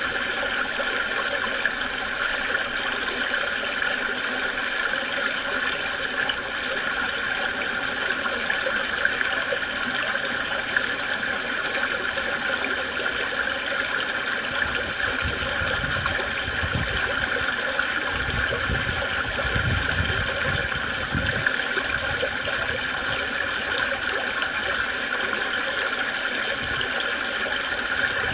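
A creek babbling: a steady rush of running water, with low rumbles for several seconds in the middle.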